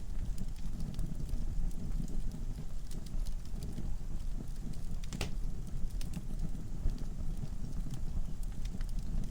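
Wood fire burning in a fireplace: a steady low rumble of the flames with scattered crackles and pops from the logs, one louder pop about five seconds in.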